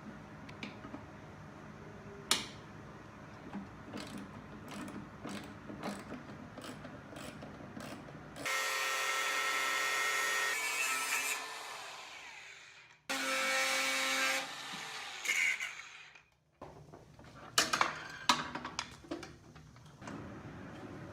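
A handheld power tool like a drill runs at full speed for about three seconds and then winds down. A moment later it runs again briefly. Before and after are scattered clicks and knocks of hand work.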